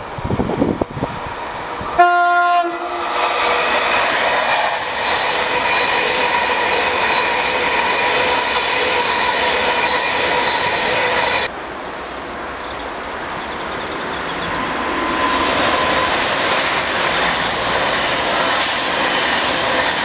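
Avanti West Coast Class 390 Pendolino giving a short horn blast about two seconds in, then passing at speed with a steady loud rush of wheels and air and a faint steady whine. The sound cuts off abruptly about halfway through, and another train is heard rising in level as it passes.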